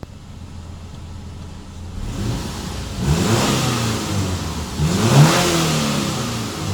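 Car engine idling, then revved twice, about three and five seconds in, its pitch rising and falling back each time.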